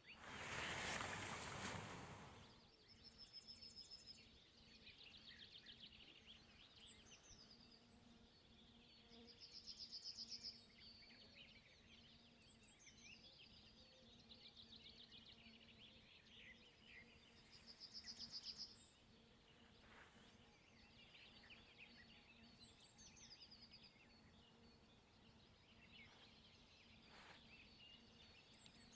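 Faint, high-pitched bird calls: three bursts of rapid repeated notes about seven seconds apart, with scattered short chirps in between. A brief rush of noise opens it, and there are two faint clicks in the second half.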